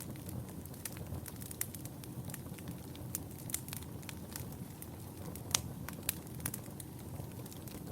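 Wood fire burning in a fireplace: frequent sharp, irregular crackles and pops over a low steady rumble of flames, with one louder pop about five and a half seconds in.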